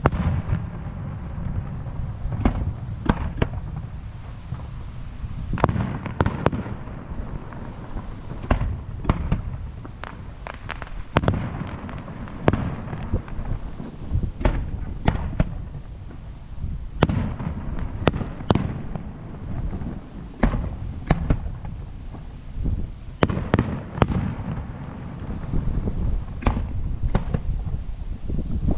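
Aerial fireworks bursting in a continuous barrage: many sharp bangs and cracks in quick, irregular succession over a constant low background noise from the ongoing shells.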